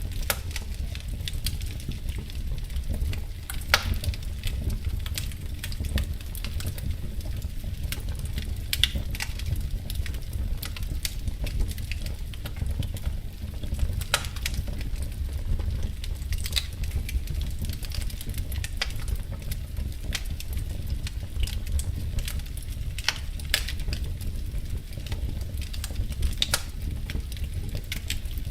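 Wood fire crackling in a fireplace: irregular sharp pops and snaps scattered throughout, over a steady low rumble.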